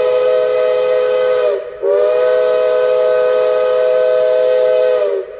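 Steam locomotive whistle blowing long blasts, a chord of several tones over a hiss of steam. One blast breaks off about a second and a half in, and the next sounds for about three and a half seconds before its pitch sags as it stops. The blasts are part of a four-whistle signal calling passengers back aboard the train.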